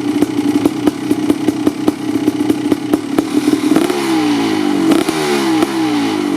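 Kawasaki KX500's 500cc single-cylinder two-stroke engine, running through an FMF Gnarly expansion chamber, idling with an uneven popping beat while it warms up. About four seconds in it gets a few quick throttle blips, the revs rising and falling each time, then it drops back to idle.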